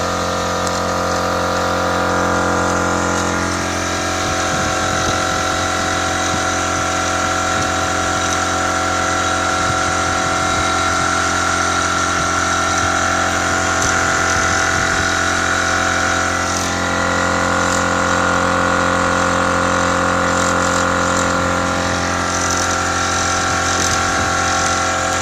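Electric air compressor with a freshly replaced 25 µF 450 V run capacitor, running steadily under its own power instead of humming stalled. Its tone shifts slightly about three and a half seconds in and again about sixteen seconds in.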